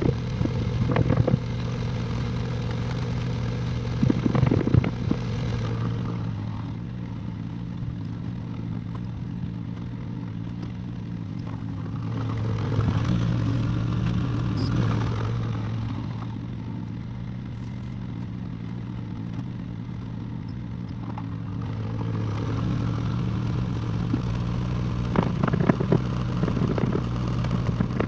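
Excavator engine running steadily, rising and falling in load. Short spells of knocks from the machine at work come about a second in, around four to five seconds in, and again near the end.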